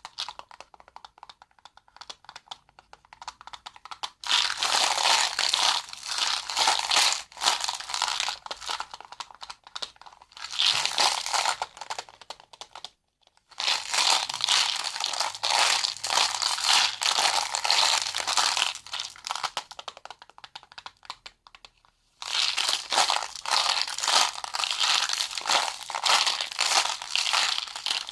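Close-up crinkling and crackling of something handled by hand, in dense bursts of a few seconds with short pauses between them.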